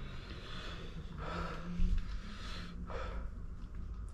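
A person breathing hard with two sharp breaths or sniffs, one about a second in and one near the end, with a nose burning and eyes streaming from very spicy 3x ramen.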